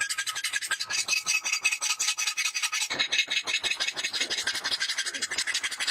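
Steel from a truck bearing being abraded by hand, a blade being filed or sanded with quick back-and-forth scraping strokes, several a second. The strokes sound fuller about halfway through.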